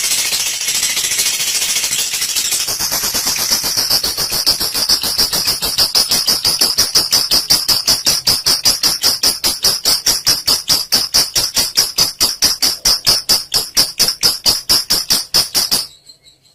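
Olive lovebird giving a long 'ngekek': a rapid, even string of high chattering notes, about five a second, that grows out of a noisier chatter over the first few seconds and stops abruptly near the end.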